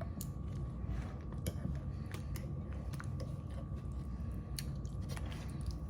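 Faint scattered clicks and scrapes of a utensil against a baking dish, with a steady low hum underneath.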